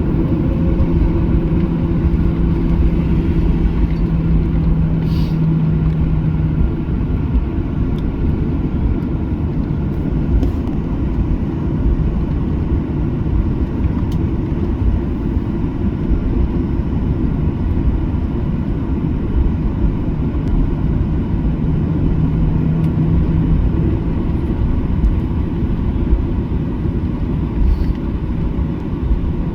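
Cabin noise inside a Boeing 737-800 on the ground before takeoff: the steady low rumble of its CFM56-7B engines and air conditioning. A steady hum fades out about seven seconds in and comes back about twenty-one seconds in.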